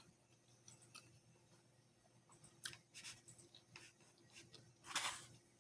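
Faint scattered clicks of a utensil picking through fried rice in a takeout container, with a short hiss about five seconds in.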